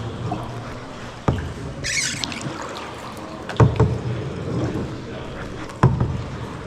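Kayak paddling: the paddle knocks sharply against the kayak three times, about every two seconds, with a short splash of water off the blade about two seconds in.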